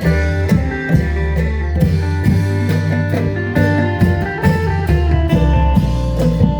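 Isan phin music: a plucked lute melody over a steady bass line and drum kit beat.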